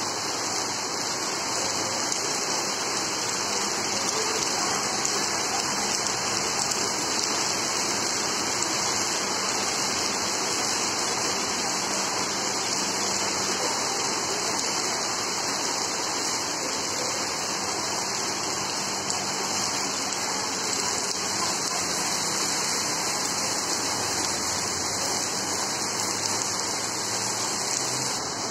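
Heavy rain falling on paved ground and trees: a dense, steady hiss with no let-up.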